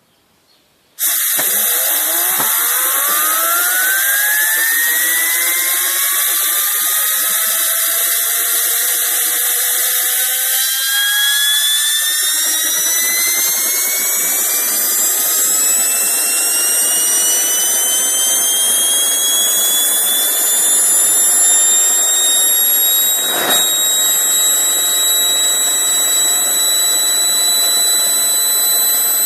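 Homemade propane-fuelled turbojet spooling up on its first run, without oil: a loud whine and hiss start suddenly about a second in. The whine climbs steadily in pitch as the turbine gathers speed, and a rushing combustion noise joins about halfway through. The whine then levels off into a steady high pitch, with one brief crack near the end.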